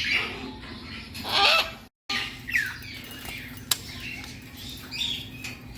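Parrots calling: one loud, harsh squawk about a second and a half in, then scattered shorter chirps and calls with a single sharp click. The sound cuts out completely for a moment around two seconds in.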